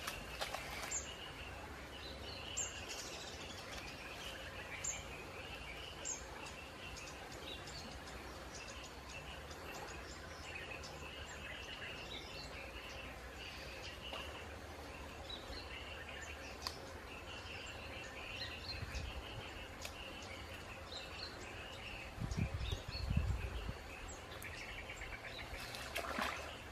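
Small birds chirping and calling repeatedly over a steady outdoor background. There is a louder low rumble about 22 seconds in and a short rush of noise near the end.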